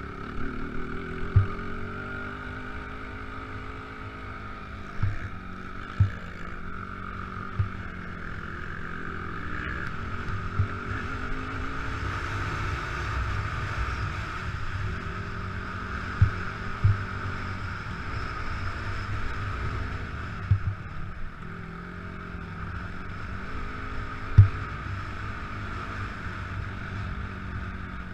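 Motocross bike engine running, its revs rising and falling, with several short low thumps along the way.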